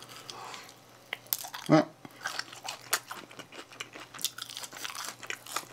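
A person chewing a Domino's sweet potato cheese stick: soft, irregular wet chewing clicks and small crunches. There is a short hum from the eater's voice about a second and a half in.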